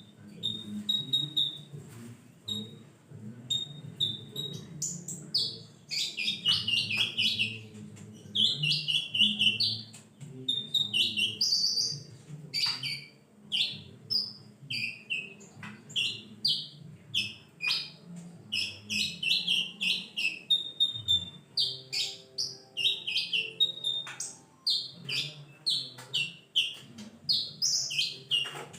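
Sunbird singing: quick high-pitched chirps and short trilled phrases, repeated almost without pause.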